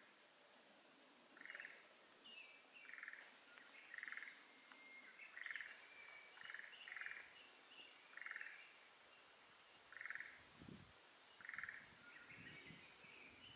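Frog calling in spring, faint short pulsed calls repeated about every second or so, some ten in a row. Thin bird chirps sound above them, and a few low rumbles come near the end.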